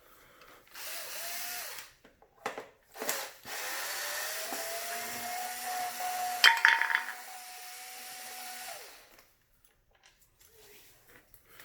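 Small electric screwdriver running, a brief run about a second in, then a longer run of about five seconds whose whine rises in pitch as it spins up and then holds steady, backing screws out of a vacuum cleaner's housing. A few sharp clicks come in the middle of the long run.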